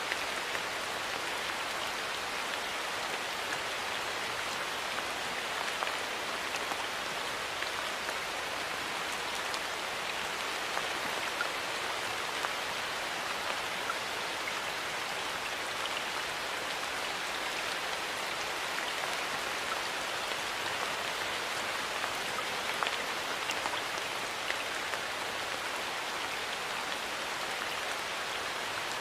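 Steady rain falling, a continuous even hiss dotted with many small ticks of individual drops striking a surface.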